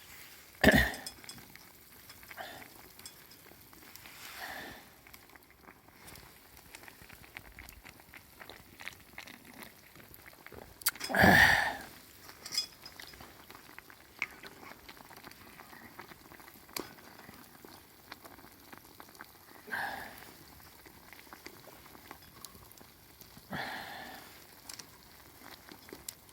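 Food sizzling over a fire pit, a faint steady sizzle dotted with light crackles. A few short louder sounds break in, the loudest a little before the middle.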